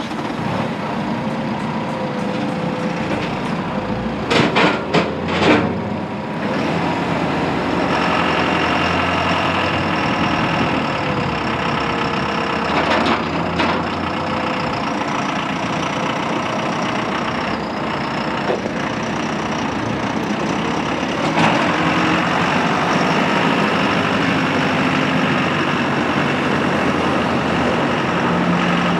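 John Deere 5100E's turbocharged four-cylinder diesel running just after being started. A few sharp knocks come about four to six seconds in, and the engine note steps up slightly about eight seconds in and again about twenty-one seconds in.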